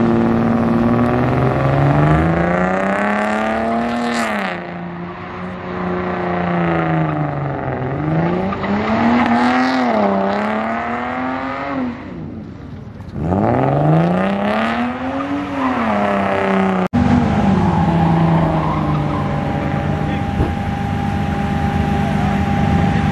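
Car engine revving up and down several times, its pitch rising and falling over a few seconds each, with a brief drop-off near the middle. About two-thirds of the way through it changes abruptly to a steadier engine note.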